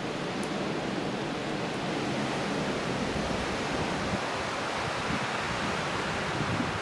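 Steady rushing wind, with a few low gusts buffeting the microphone in the second half.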